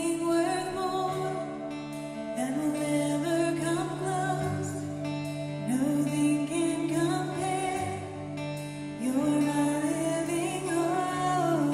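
Slow instrumental intro of a live worship band: a sustained keyboard pad holds a low note under a melody line that slides up into a wavering held note about every three seconds.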